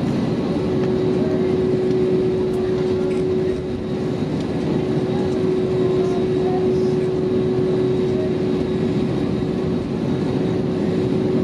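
Airbus A321neo's Pratt & Whitney geared turbofan engines heard from inside the passenger cabin: a steady, dense rumble with one constant hum running through it.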